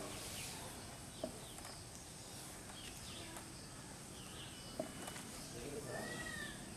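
Faint background birdsong: scattered short chirps and a few whistled notes, one arching note near the end, with two soft knocks along the way.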